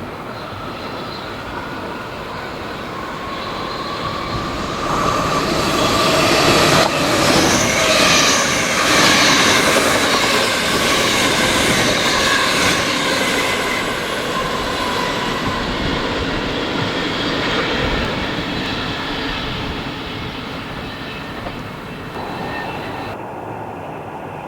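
An electric train passing through the station: its running noise swells to a peak about halfway through and then slowly fades, with high-pitched whining and squealing tones over the rumble of the wheels.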